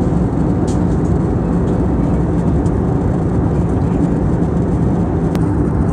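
Steady cabin noise inside an Airbus A320neo airliner in flight: engine and airflow noise, low and even, with a couple of faint clicks.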